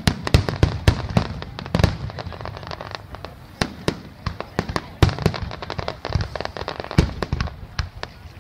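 Fireworks display: many sharp bangs and pops over continuous crackling, densest in the first two seconds, then louder single bangs every second or two.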